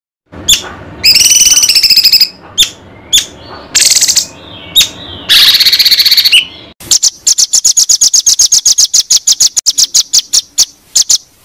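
Songbird song: a mix of high whistles, chirps and short trills, then a fast run of sharp repeated notes, about nine or ten a second, for the last four seconds before it cuts off.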